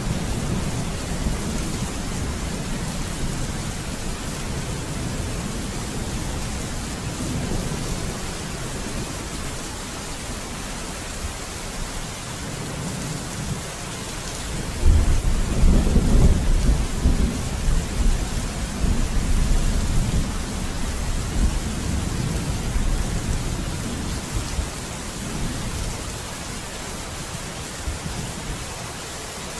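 Steady heavy rain with thunder: a low rumble fades over the first seconds, then about halfway through a loud thunderclap breaks into a long rolling rumble that slowly dies away.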